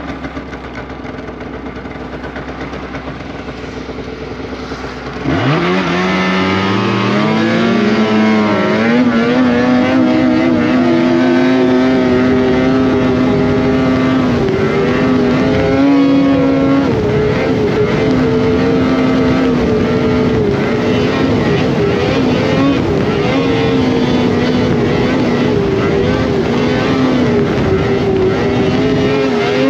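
Polaris Indy Cross Country 600 snowmobile's two-stroke engine, off the throttle and winding down for about five seconds, then opened up about five seconds in: its pitch climbs sharply and it runs on at a steady high pitch, rising and dipping a little with the throttle.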